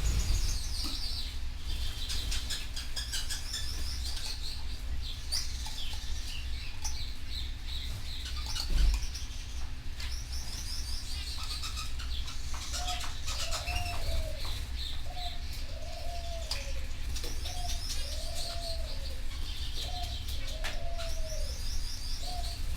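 Canaries singing in fast high trills and chirps, easing off about halfway through and returning near the end. From about halfway on, a lower arched call repeats roughly once a second under the song, over a steady low hum, with a single thump about nine seconds in.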